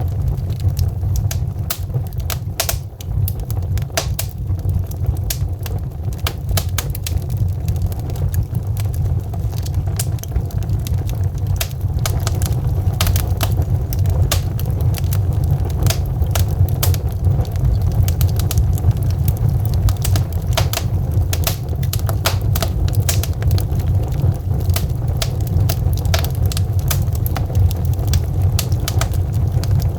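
Wood fire burning, with many sharp crackles and pops over a steady low rumble of the flames.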